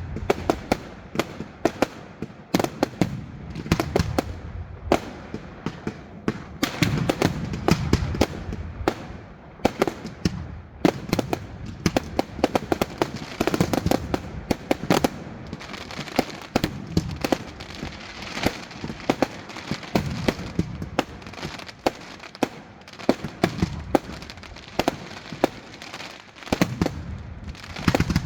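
Fireworks going off in a dense, continuous barrage: many sharp bangs and crackles close together, with deep booming shell bursts swelling every few seconds.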